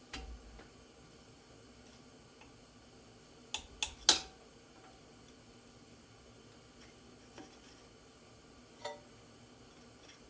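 A few scattered light clicks and taps against a quiet background, the loudest a quick run of three about four seconds in: hands working at an ABS wheel-speed sensor stuck in a steering knuckle, trying to pop it out.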